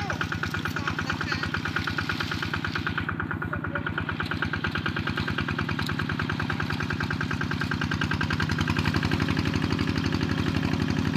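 A small engine running steadily with a fast, even pulse, picking up a little in speed and loudness about eight seconds in.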